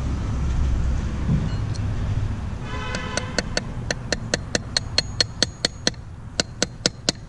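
A quick, even series of sharp metallic clicks or taps, about four or five a second, from a hand tool worked on the engine during teardown. It starts about three seconds in, after a low rumble of handling.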